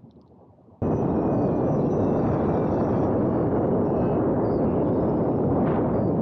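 Loud steady rushing of wind and motor noise picked up by a camera riding on a small electric RC plane in flight, cutting in abruptly about a second in.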